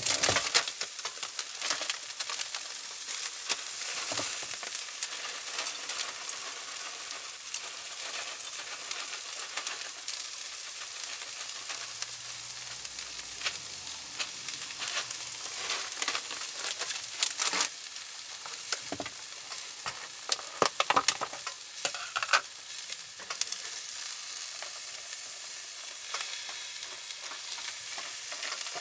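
Takoyaki batter sizzling steadily in the wells of an electric takoyaki hot plate. Scattered short clicks and rustles come over the sizzle, most of them in the second half.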